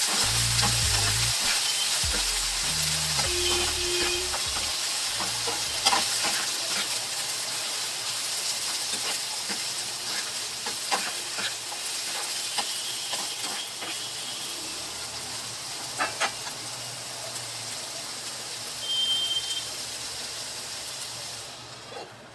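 Green beans frying in hot oil in a pan: a steady sizzle that slowly dies down, with a few clicks of a spoon or spatula stirring against the pan.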